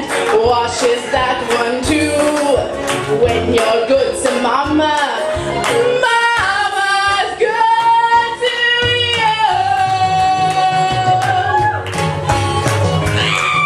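A woman singing a show tune with band accompaniment, holding one long note about ten seconds in.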